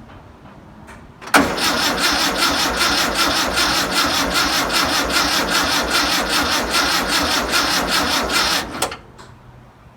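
Starter cranking the 1962 VW Type 2's air-cooled flat-four engine: a loud, steady, rhythmic chugging that starts suddenly and cuts off about seven and a half seconds later.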